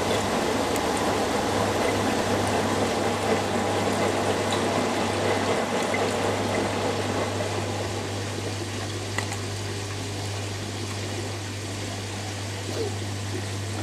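Hoover Dynamic Next and Beko Pro AquaTech front-loading washing machines running their final spin, a steady motor hum with water rushing out through the drain pump. The rushing eases off a little about halfway through.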